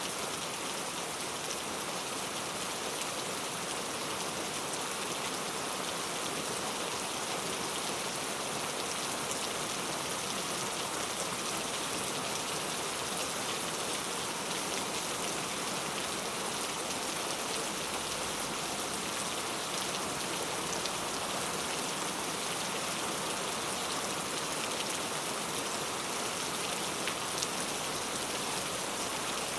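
Heavy rain falling steadily on a city street, a dense even hiss with scattered drop ticks.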